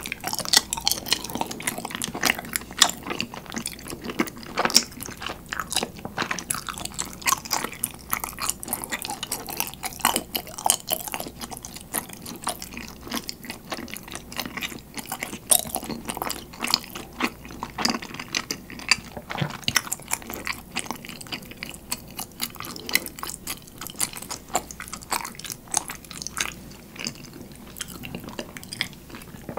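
A person chewing soft, chewy rice-cake dango in a sweet soy sauce, with many quick wet mouth clicks and smacks throughout.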